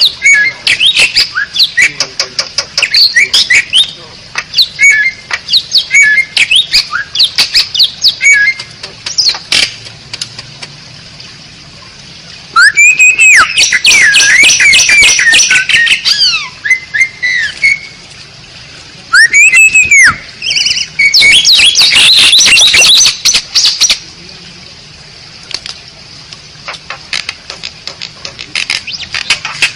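Asian pied starling (jalak suren) song. Quick clicking chatter and short chirps are followed by two loud stretches of harsh, wheezy chattering with swooping whistles, around the middle and again about two-thirds through.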